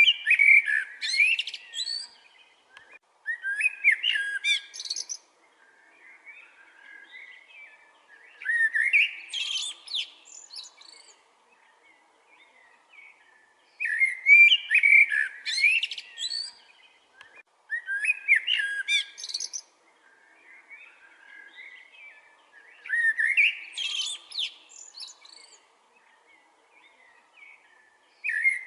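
Songbird singing quick, rapidly gliding whistled phrases, each about two seconds long and repeated every four to five seconds, with softer chirps in between.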